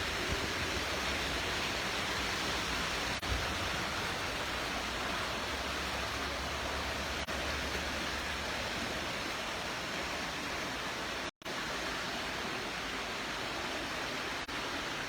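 Steady rushing of floodwater, an even hiss with a low rumble under it through the first half or so; the audio cuts out for an instant about two-thirds of the way through.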